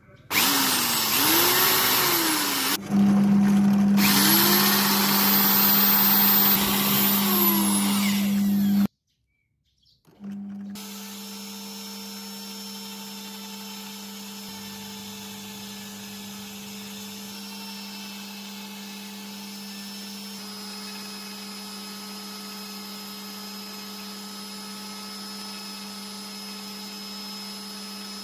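A handheld electric power tool running loud, its pitch sagging and recovering as it bites into the wood, stopping briefly about three seconds in and starting again. After a short silence about nine seconds in, a quieter motor runs on steadily with an unchanging hum.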